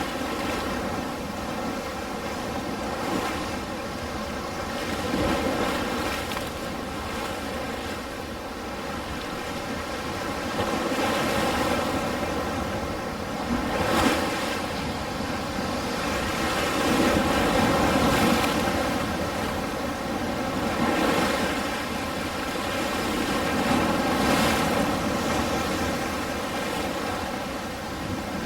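Ocean surf: waves breaking and washing in continuously, swelling and easing every few seconds, with several louder surges.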